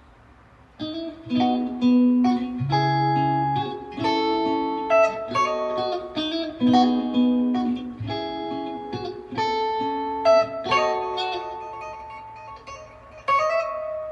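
Guitar music: a phrase of single plucked notes and chords, starting about a second in, with the last note ringing out near the end.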